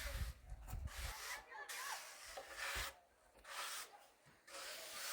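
Hand sanding or rubbing on a hard surface: a series of rasping strokes, each about a second long, with short pauses between them.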